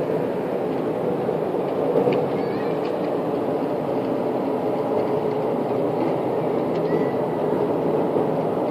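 Steady low droning rumble with a faint held tone inside it, the kind of sound put about in 2014 as strange, unexplained noises in the sky.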